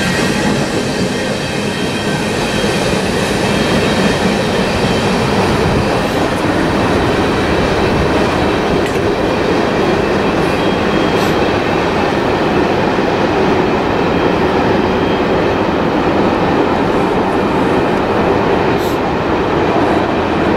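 Union Pacific manifest freight train's cars, covered hoppers and tank cars, rolling past at speed: a steady rumble and rattle of steel wheels on the rails.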